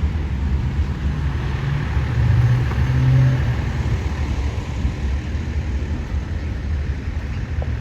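A heavy vehicle's engine rumbling low and steady, swelling louder for about a second between two and three seconds in.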